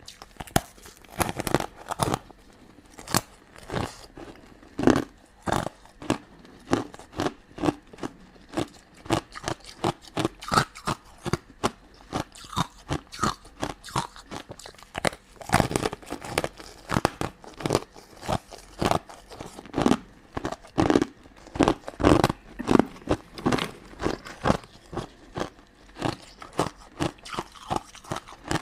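Close-miked mouth sounds of eating crunchy, sugar-coated sweets and jelly: irregular crunching and chewing, several crunches a second.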